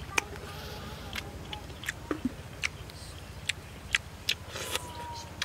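A person chewing with a full mouth: wet, smacking mouth clicks come about twice a second in an irregular rhythm, over a steady low hum.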